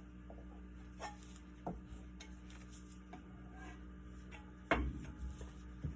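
Light rubbing and small scattered knocks of things being handled, with one sharper, louder knock about three-quarters of the way through, over a steady low electrical hum.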